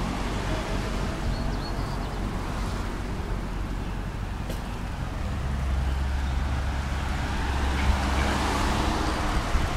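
Steady road traffic noise, with a vehicle's engine growing louder in the second half as it approaches.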